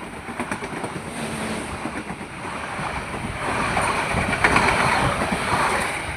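Passenger train passing close by: a rushing, rumbling noise with wind buffeting the microphone, growing louder to a peak about two-thirds of the way through and then easing.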